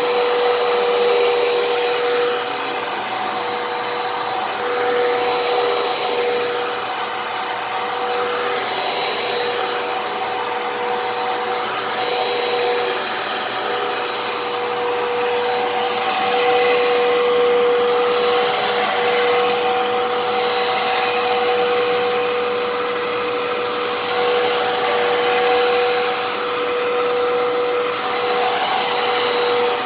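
Fantom Fury vacuum cleaner running steadily: a motor whine over rushing air, its loudness swelling and dipping a little as it vacuums.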